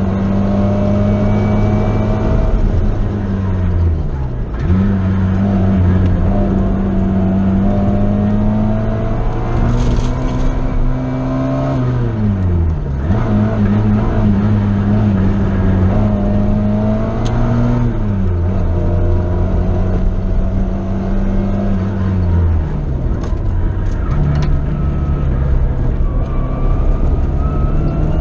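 Sports car's engine heard from inside the open cockpit while lapping a circuit. Its note holds steady, then falls away and picks back up four times as the driver lifts off for corners, with road and wind noise throughout.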